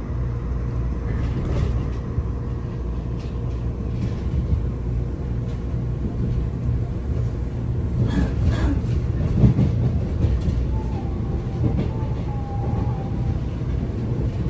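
Steady low rumble of a train running on the rails, heard from on board, with a burst of clattering knocks from the wheels about eight to ten seconds in.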